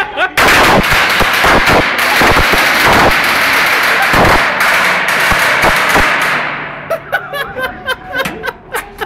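A string of firecrackers going off in a rapid, continuous crackle of bangs for about six seconds, then dying away.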